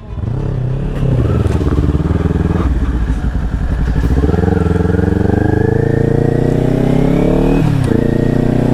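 Motorcycle engine accelerating hard, its pitch climbing steadily, with a brief drop for an upshift about three quarters of the way through before it pulls again.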